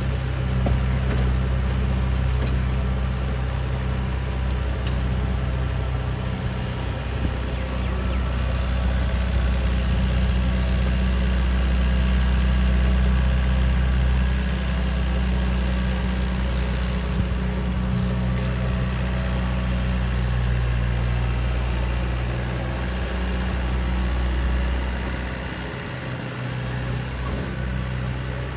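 Massey Ferguson 2630 F tractor's four-cylinder diesel engine running steadily while driving a rotavator, dropping a little in level near the end.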